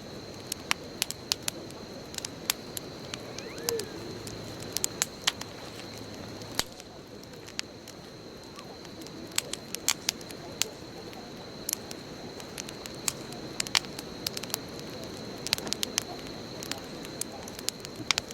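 Wood bonfire burning, crackling with irregular sharp pops over a soft steady hiss of the flames.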